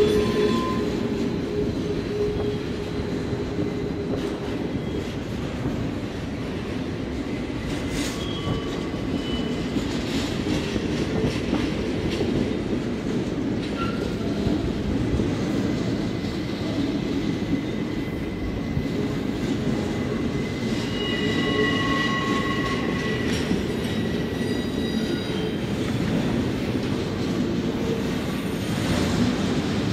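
Canadian National double-stack container train rolling through a tight curve: a steady rumble of wheels on rail, with high-pitched flange squeal coming and going, clearest about a third of the way in and again past the middle.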